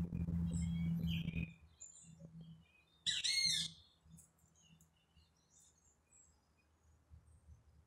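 Small bird chirping: one loud cluster of quick, curved high chirps about three seconds in, with faint scattered chirps around it. A low rumble fills the first second and a half.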